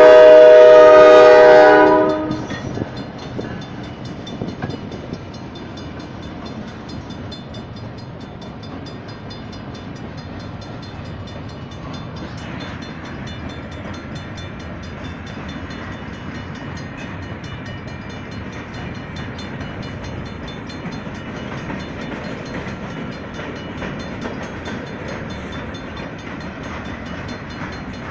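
Diesel locomotive horn sounding a loud chord, cutting off about two seconds in. Then a freight train's cars roll through the grade crossing with a steady rumble and clatter, while the crossing's Safetran mechanical bell rings rapidly and evenly.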